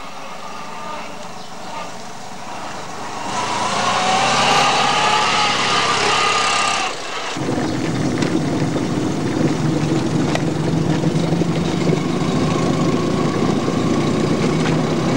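Fiat 126p's air-cooled two-cylinder engine running. Its revs rise from about three seconds in, and near the middle the sound changes suddenly to a steady drone heard from inside the small car's cabin on the move.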